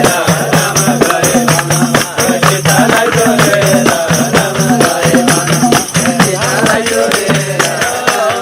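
Live folk music with a fast, steady percussion beat and tambourine jingles over sustained pitched tones.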